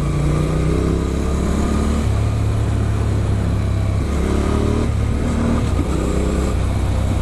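Adventure motorcycle with an Arrow aftermarket exhaust running at road speed, its engine note rising in pitch three times as it accelerates, over a steady rush of wind noise.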